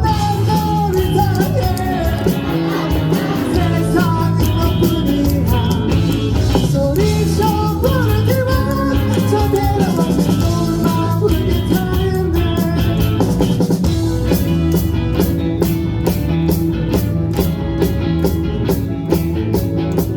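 Rock band playing live, with drum kit and guitar. A singer carries the melody for roughly the first half, then the band plays on with an even beat of cymbal strokes.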